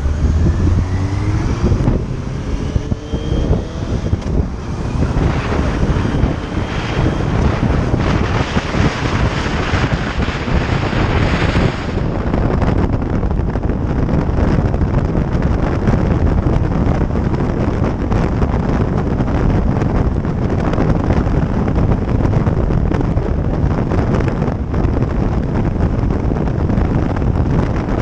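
Motorcycle engine pulling away, its pitch rising through the first few seconds, then wind rushing over the microphone as it rides on at speed.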